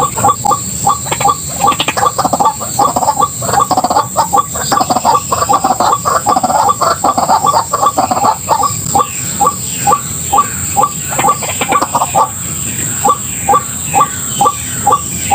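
White-breasted waterhen calling: a dense run of short, repeated notes that settles about halfway through into a regular series of about two notes a second.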